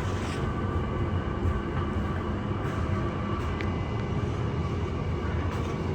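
Ride noise inside a Mariyung D-set electric train running on the rails as it nears a station stop: a steady low rumble with faint steady high tones over it and an occasional light click.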